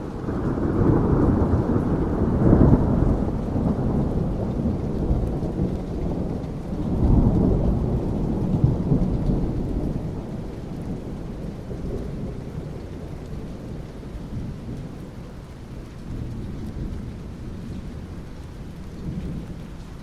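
Thunder rumbling over steady rain. A deep rumble swells in the first few seconds, rolls again about seven seconds in, then slowly dies away under the continuous hiss of rain.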